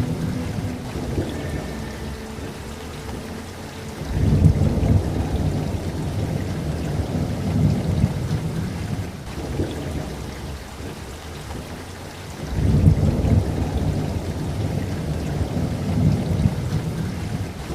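Steady rainfall with thunder rumbling twice, a low roll starting about four seconds in and another about twelve seconds in, each fading over a few seconds.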